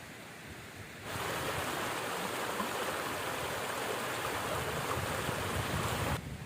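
Steady rush of river water flowing. It starts suddenly about a second in and cuts off suddenly near the end.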